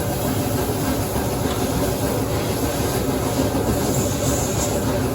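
Steady, continuous mechanical running noise, like an engine or machine running without change.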